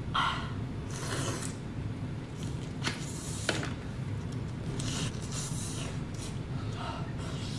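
Close-miked eating of cooked lobster meat: biting and wet chewing with lip smacks in short irregular bursts, and a sharp click about three and a half seconds in.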